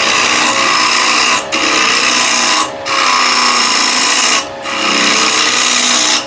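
A round-nose scraper cutting into a chestnut blank spinning on a wood lathe while hollowing it out: a loud, hissing scrape in long passes broken by brief pauses about one and a half, two and three quarter, and four and a half seconds in, with the lathe's steady hum underneath.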